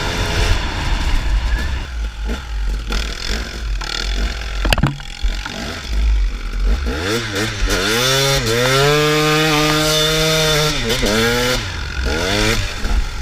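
Dirt bike engine over a rough low rumble, with a sharp knock about five seconds in. Past the middle the engine revs up, holds high revs for about two seconds, then drops back.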